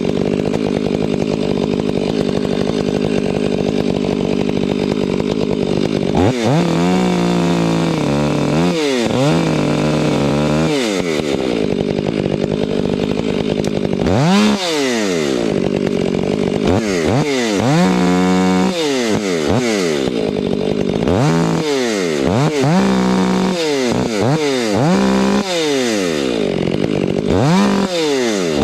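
Chainsaw running at high speed, then from about six seconds in revving up and down over and over, as when it is throttled on and off while cutting wood.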